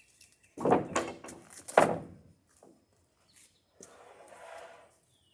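Wooden boards knocking and clattering as they are shifted in a lumber pile: two loud knocks about a second apart, then a softer scraping near the end.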